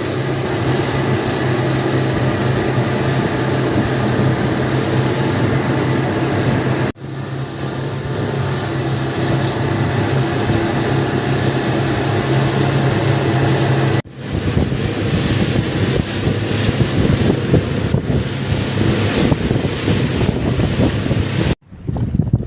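Fishing boat's engine running steadily underway, with wind buffeting the microphone and water rushing past the hull. The sound breaks off abruptly three times for a moment.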